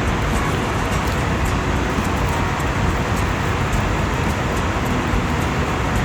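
Steady rushing cabin noise of an Airbus A321neo in flight: airflow over the fuselage mixed with the hum of the engines, heard from inside the cabin.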